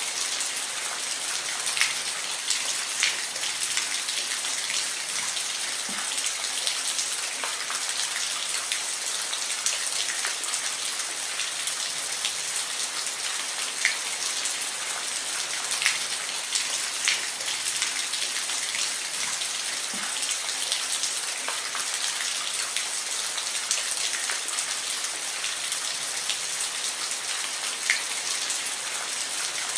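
Steady rain falling, an even hiss with the sharp ticks of single drops striking a surface now and then.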